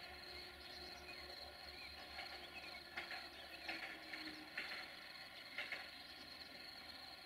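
Quiet outdoor ambience: short high chirps, about one a second, over a steady hum of several fixed tones.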